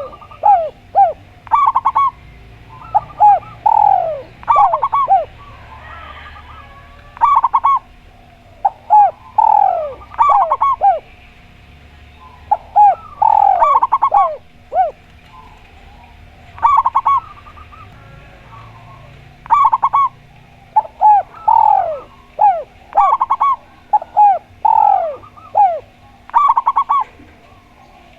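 A spotted dove and a zebra dove cooing, repeated phrases of short falling coos following one another every second or two with brief pauses between bouts.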